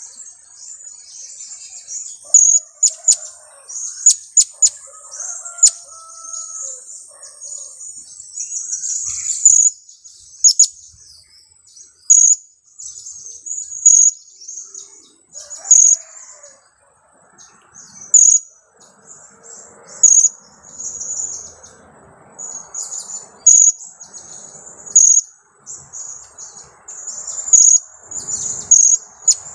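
Juvenile blue-crowned hanging parrot (serindit) giving its high, sharp 'kiak' call, short chirps repeated about every one and a half to two seconds, with a quicker run of chirps in the first few seconds.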